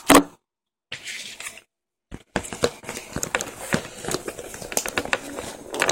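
Plastic packaging crinkling and rustling as it is handled and closed up around leftover pizza, with dense irregular crackles. The sound cuts out completely twice in the first two seconds.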